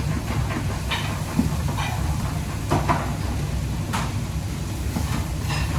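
Steady low rumble with a few scattered clinks and knocks, as of pans and utensils being handled in a kitchen.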